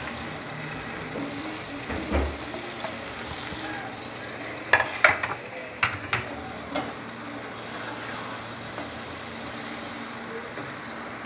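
Onions and tomatoes sizzling steadily in hot oil in an aluminium karahi, with a metal slotted spatula stirring and scraping through them as ground spices are mixed in. One dull knock about two seconds in, and a run of sharp clicks of the spatula against the pan around the middle.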